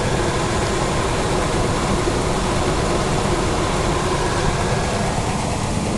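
Chevrolet 305 V8 engine of a 1981 Chevy truck running steadily.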